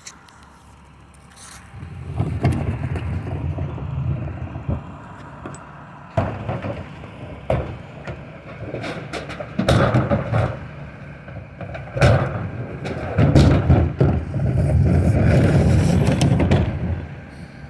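Recycling collection truck running close by. Its engine hum comes up about two seconds in, with several knocks and clanks over it, and drops away near the end.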